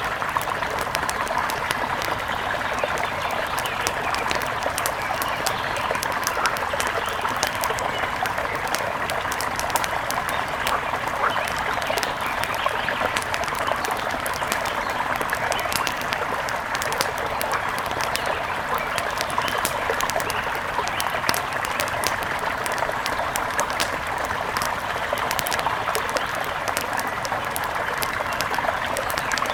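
Mountain river flowing at an even, steady rush, with many small splashing ticks.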